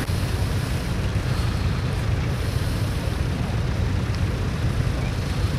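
Tractor engine running steadily, a low rumble.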